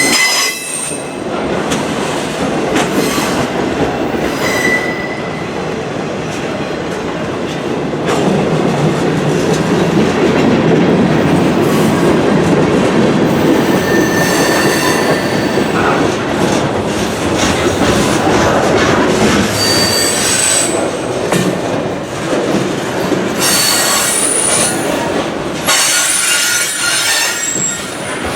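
Freight train cars rolling past in a steady rumble, with intermittent high-pitched wheel squeal and clacking of wheels over the rail.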